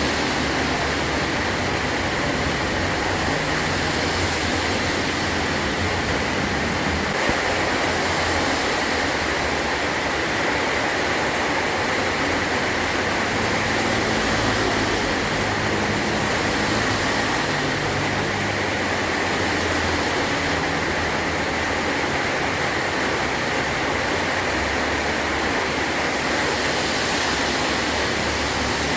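Heavy rain falling steadily on a metal roof, an even hiss without a break.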